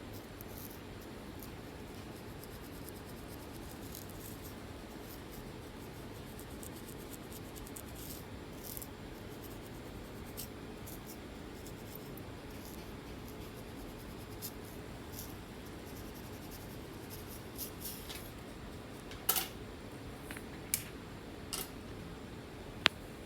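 Picking and scratching at dry, flaky scalp skin: faint short crackling scratches over a steady background hiss, with a few louder sharp snaps in the last few seconds.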